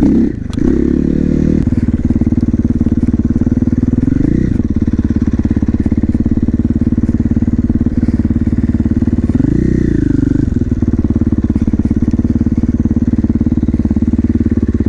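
Single-cylinder four-stroke engine of a KTM 450 SMR supermoto idling with a fast, even thump. It is revved briefly a few times: near the start, at about four seconds, and once more about ten seconds in, where the pitch rises and falls back.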